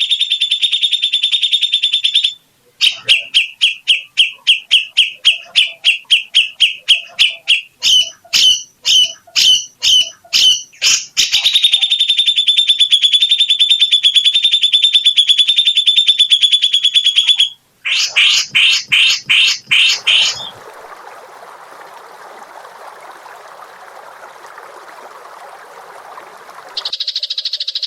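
Recorded songbird song of the kind used to tutor caged birds: long, fast trills and quick runs of separate high notes, broken by short gaps. About twenty seconds in it changes to a lower, harsh buzzing rattle lasting several seconds, and near the end a high, fast trill starts abruptly.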